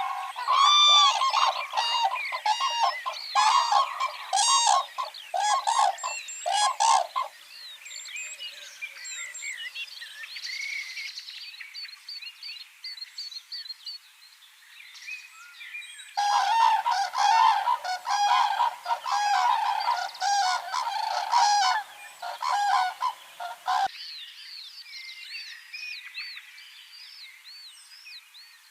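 Common cranes calling: loud, rapidly repeated bugling notes in two bouts of about seven seconds each, the second starting about sixteen seconds in. Softer, higher bird chirps fill the gap between and after.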